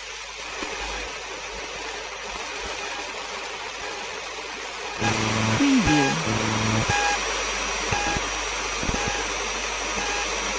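Analogue FM radio static while tuning between stations: a steady hiss. About halfway through the static jumps louder and a short beeping tone repeats over it, with a brief falling whistle just after the jump.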